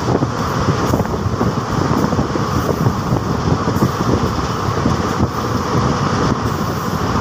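Passenger train coach running at speed, heard at its open doorway: a steady, loud rumble of wheels on rails mixed with rushing air.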